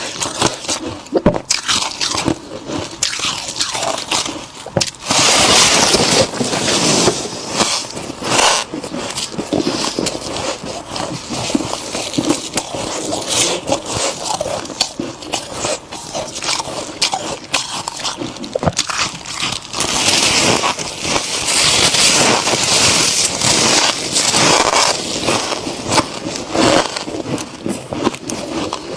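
Freezer frost being bitten and chewed: a dense run of crisp, crackly crunches, heaviest for a few seconds about a fifth of the way in and again past the two-thirds mark.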